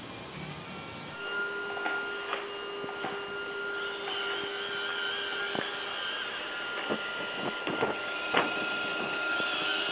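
Robot vacuum cleaner running: a steady motor whine with a few tones that starts about a second in, with scattered clicks and knocks.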